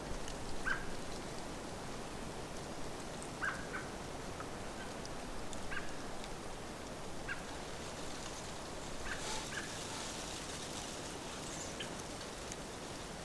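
Scattered short bird chirps, one or two at a time and about eight in all, over a steady outdoor hiss.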